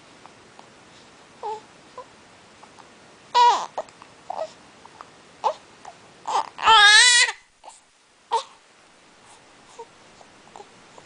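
A seven-week-old puppy whining and crying in short, high calls, with soft squeaks between. There is a loud cry about a third of the way in and a longer, wavering cry a little past halfway.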